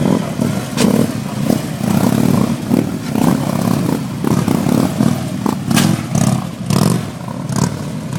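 Police motorcycle engines revving up and down in repeated surges.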